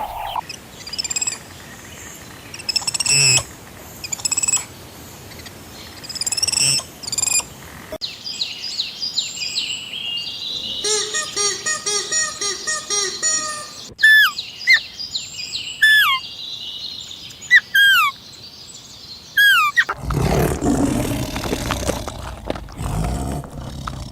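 Bird calls from several different birds, one after another: scattered chirps, then a fast repeating trill, then a series of sharp, falling whistles. Near the end a lower, noisier animal sound takes over.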